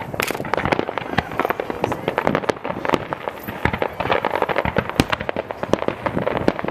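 Fireworks display: a dense, irregular run of bangs and crackling reports, several a second, with one sharper bang about five seconds in.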